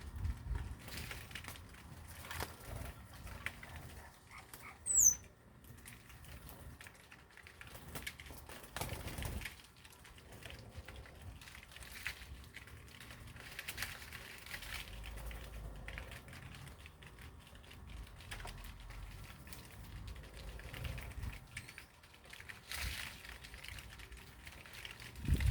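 Small birds moving about, with light fluttering and rustling, and one short, high, falling chirp about five seconds in.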